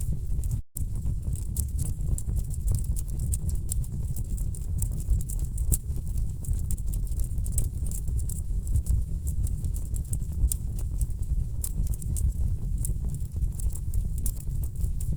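Wood fire burning in a fireplace: logs crackling and popping in quick irregular clicks over a steady low rumble of flame. The sound cuts out for an instant less than a second in.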